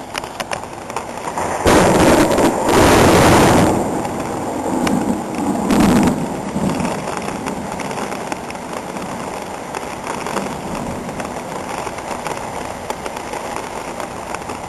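A loud clap of thunder about two seconds in, rolling on with a second loud peak around six seconds and then a slowly fading rumble, over heavy, steady rain.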